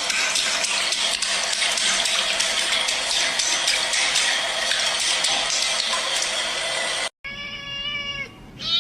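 A steady, loud rushing noise for about seven seconds that cuts off suddenly, then a cat's long meow with a wavering pitch near the end.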